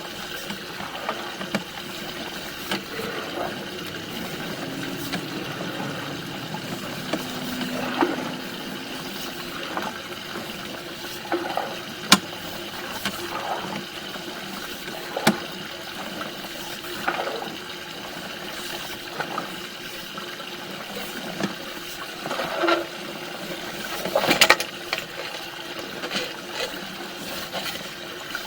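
Water running and splashing in a sewer line during a flow test, a steady wash of noise broken by scattered clicks and knocks.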